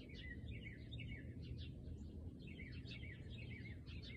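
Small birds chirping, many short falling chirps a few each second, over a faint steady low rumble.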